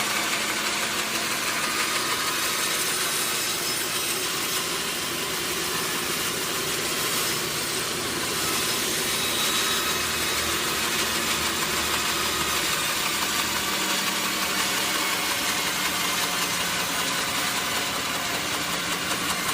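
Large sawmill machinery running steadily, a constant mechanical drone with a light rattle.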